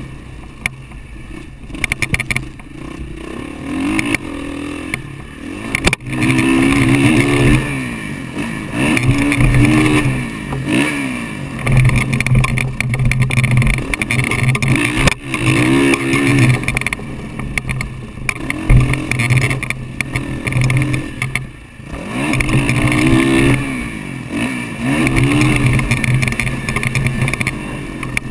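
Motocross dirt bike engine revving up and backing off over and over as it is ridden around the track, picked up by a helmet-mounted camera.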